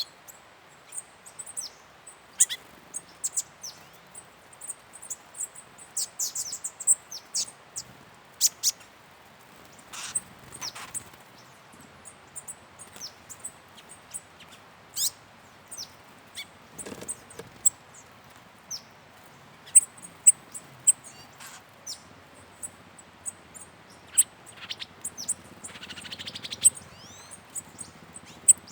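Several small birds chirping and calling: a busy run of short, high-pitched chirps one after another, with a few quick downward-sliding notes.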